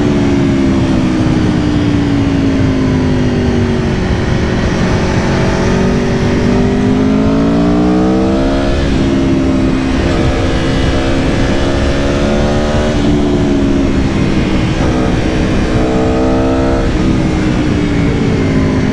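2022 Aprilia Tuono V4 Factory's 1077 cc V4 engine pulling through the gears: the pitch sags at first, then climbs under acceleration and drops sharply at upshifts about eight and a half, thirteen and seventeen seconds in. Wind rush on the onboard microphone runs underneath.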